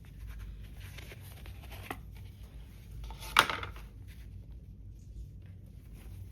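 Quiet dining-room background with faint small clinks of tableware, and one sharp clack about three and a half seconds in, as of a dish or cup set down on a table.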